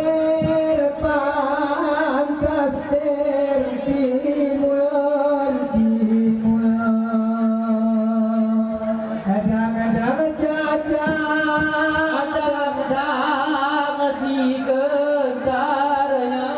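High-pitched male singing in Gayo Saman style: long held notes with wavering ornaments, broken by short sharp claps or slaps from the dancers, most frequent in the first few seconds.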